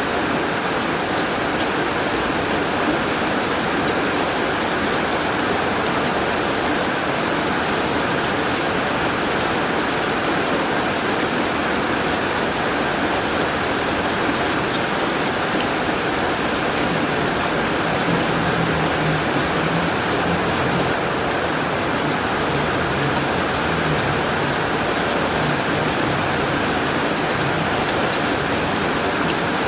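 Steady heavy rain drumming on a tin roof, a dense even patter with sharper drop ticks. A faint low rumble comes in during the second half.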